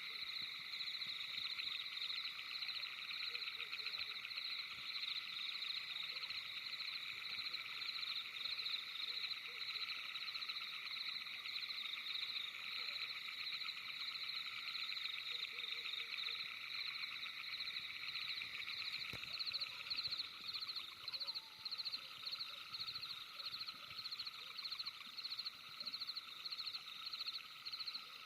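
Night chorus of calling frogs and insects: many overlapping rapid, pulsing trills in several pitch bands. About twenty seconds in, the highest trill breaks into slower, separate pulses.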